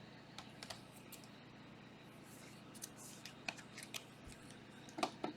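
Trading card packs and cards being handled: faint, scattered rustles and small clicks, with a few louder ones near the end.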